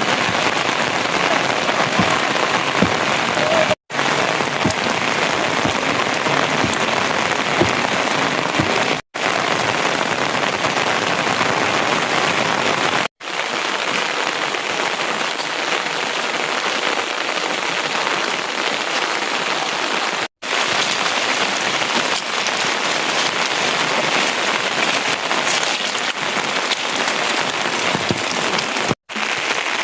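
Steady rain falling, an even hiss, cut off for an instant about five times.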